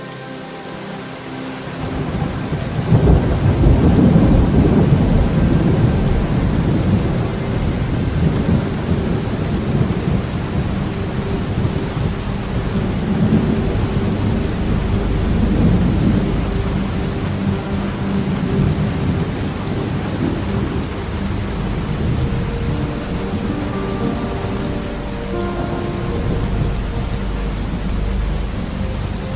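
Steady rain with rolling thunder. A deep rumble swells in about two seconds in, is loudest for the next few seconds, and keeps rolling with further swells.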